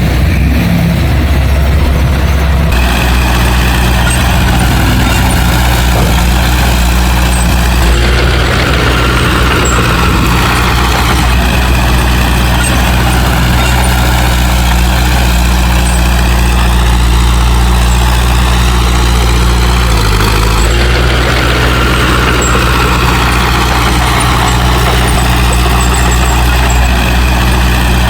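Heavy diesel engine of earthmoving equipment running steadily, with small shifts in its note a few times.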